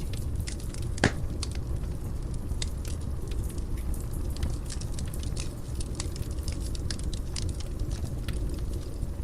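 Fire burning in a fireplace, crackling with many small pops over a steady low rumble. One much louder pop comes about a second in.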